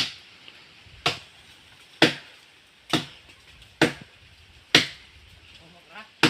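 Chopping by hand: seven sharp blade strikes, about one a second, with a longer pause before the last.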